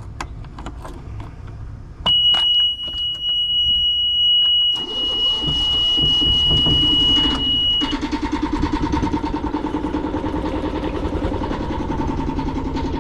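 Boat engine being started: a steady high warning buzzer comes on about two seconds in, the starter cranks the engine over from about five seconds, and near eight seconds the engine catches and the buzzer stops as it settles into an even idle.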